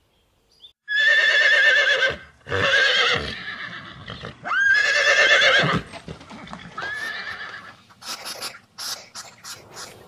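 Horse whinnying, four quavering calls, the third rising sharply at its start. Near the end it gives way to a run of short, rapid huffs.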